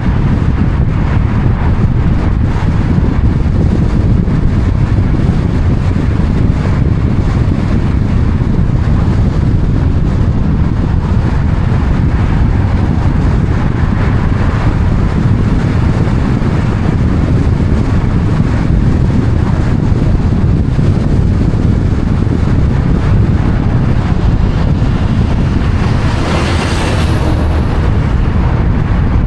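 Steady low rumble of road and wind noise from a moving vehicle. Near the end a brief louder hiss swells and fades, with a faint high whine falling in pitch.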